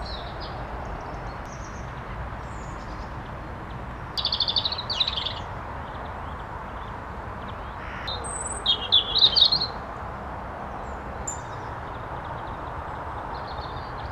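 A small songbird singing two short bursts of quick, high notes, about four seconds in and again near nine seconds, with fainter chirps in between, over a steady background hiss.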